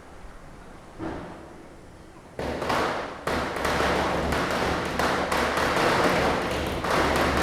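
Diwali firecrackers bursting in a rapid, dense run of cracks that starts suddenly about two and a half seconds in, after a quieter stretch with one faint pop about a second in.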